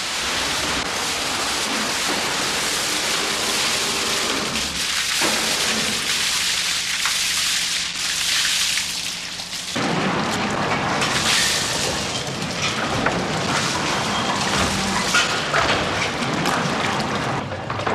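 Water rushing and splashing as ice moulds are dipped into a warm-water bath to loosen the ice blocks, with scattered clanks and knocks in the second half.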